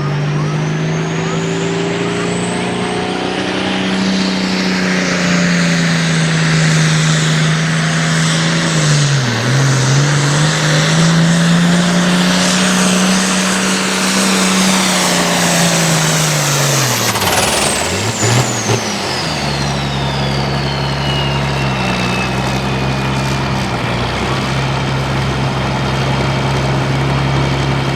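Altered farm pulling tractor's turbo diesel engine running at full throttle under load, a high turbo whistle climbing with it. The engine pitch sags once, then about 17 seconds in the throttle closes: the whistle falls away and the engine settles to a steady lower run.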